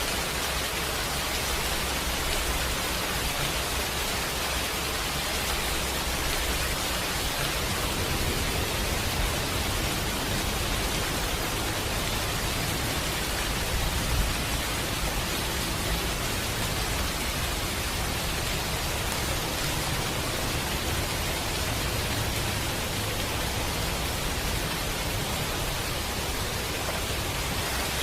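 Steady rain: an even, unbroken hiss with a low rumble underneath, and one brief louder pop about fourteen seconds in.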